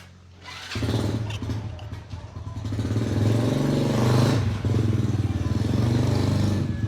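Rebuilt engine starting up about a second in and running, its speed rising a little then holding steady.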